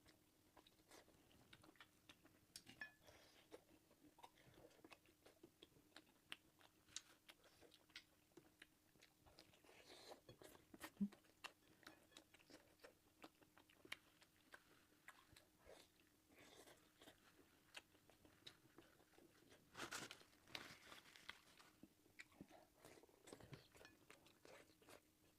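Close-miked eating sounds: chewing and biting of egg fried rice and roasted pork sausage, heard as many soft, irregular mouth clicks and crunches, with a few louder bites about ten and twenty seconds in. A faint steady hum lies underneath.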